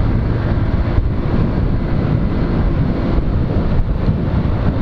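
Wind rushing over an action camera's microphone while riding a Honda CG 125 Fan motorcycle, over the steady running of its small single-cylinder engine.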